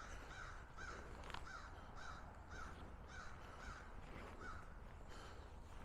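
Faint bird calls in a quick series of short, arched calls, about two a second, with a short pause a little past the middle.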